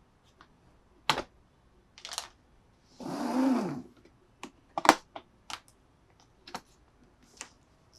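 Small plastic toy pieces being handled: a series of sharp clicks and taps, with a scraping, rustling passage of about a second near the middle.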